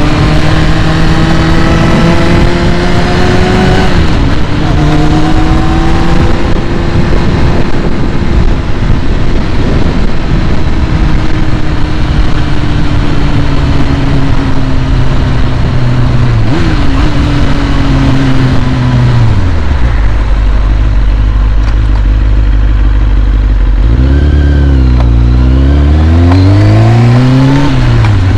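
2001 Kawasaki ZX-6R's carbureted inline-four engine running at a raised idle while it warms up after a cold start. The idle sinks slowly, then drops suddenly to a much lower speed about nineteen seconds in. Near the end it revs up and down a couple of times.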